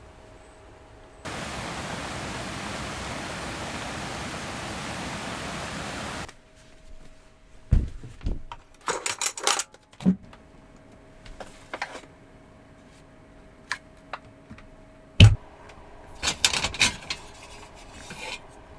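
A steady, loud hiss lasting about five seconds that cuts off suddenly. Then small sharp clicks, taps and rustles of a yogurt cup, its lid and a spoon being handled.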